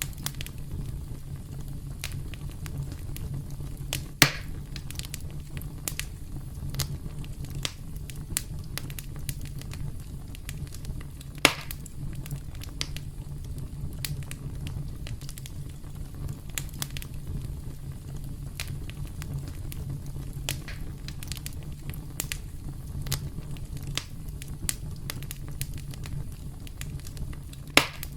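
Campfire burning: a steady low rumble of flames with frequent sharp crackles, and three louder pops, about four seconds in, about eleven seconds in and near the end.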